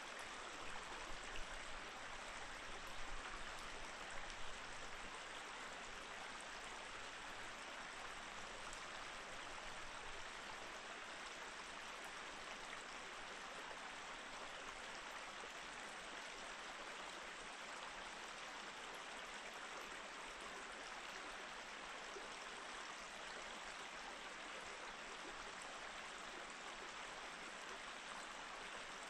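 Mountain stream running steadily, an even rush of flowing water, with a few brief low bumps in the first few seconds.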